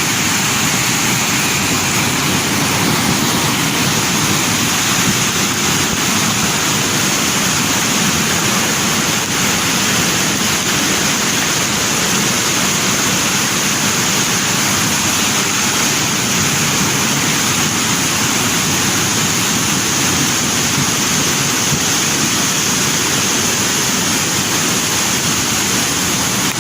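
Floodwater of a river swollen by heavy rain, rushing steadily.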